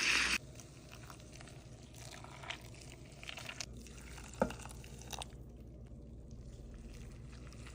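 Bone broth is poured over dog kibble and the pour stops just at the start. Faint wet squishing and light clicks follow as the food soaks, with one sharper click about four and a half seconds in.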